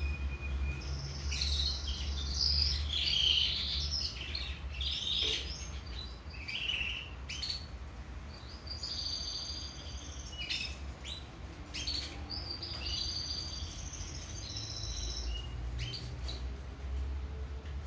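Domestic canary singing: rapid high trills and chirping phrases in bursts with short pauses, over a low steady hum.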